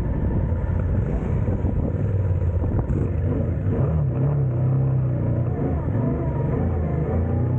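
Yamaha Ténéré 700's parallel-twin engine running under throttle as the bike is ridden, its pitch stepping up about four seconds in.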